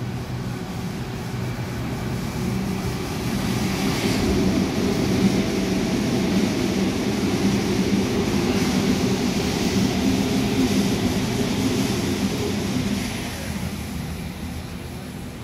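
Double-deck electric passenger train running through the station. Its motor hum and wheel noise build as it comes in, are loudest as it runs past, and fade from about 13 seconds in as it draws away.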